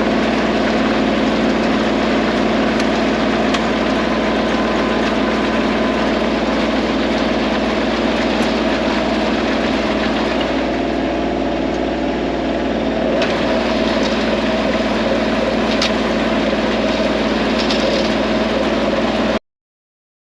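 Kubota compact tractor's diesel engine running steadily, cutting off suddenly near the end.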